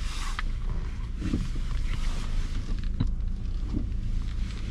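Car engine and tyre rumble heard from inside the cabin while moving slowly, with a single click about three seconds in.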